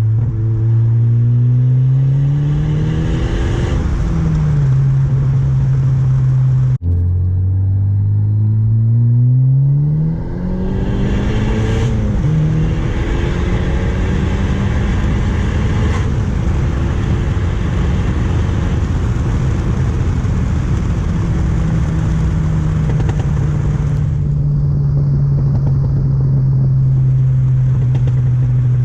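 Turbocharged car engine accelerating hard through the gears, heard from inside the cabin. Its pitch climbs and drops back at each upshift, twice in the first half, then holds a steady note at cruise for the rest.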